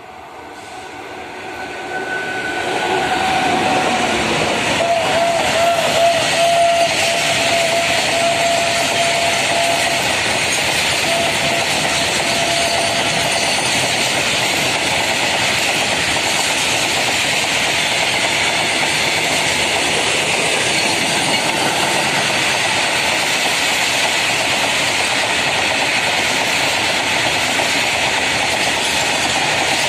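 Electric-hauled freight train of open box wagons running past at speed: a steady, loud clatter of wheels and rattling wagons that builds over the first few seconds as the locomotive draws level. A long, thin tone sounds over roughly the first ten seconds.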